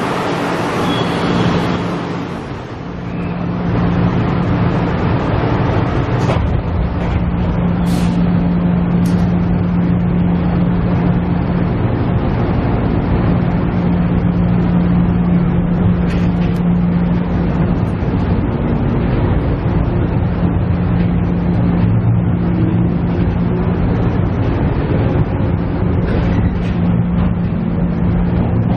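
Cabin running sound of a KiHa E130 diesel railcar: the diesel engine drones steadily under a rumble of wheels on rail. A high hiss fades out over the first two seconds, then the drone settles for the rest.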